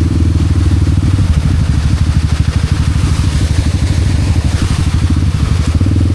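Honda Wave 125 single-cylinder four-stroke motorcycle engine running hard under load as the bike tries and fails to climb a steep slope. The engine note slows and roughens through the middle and picks up again near the end.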